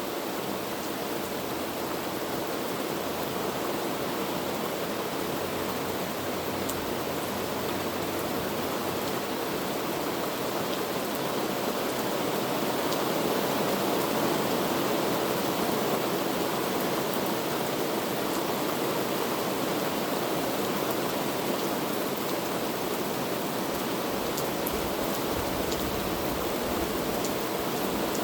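Heavy rain falling in a steady dense hiss, with a few sharp drop ticks here and there; it grows slightly louder about halfway through.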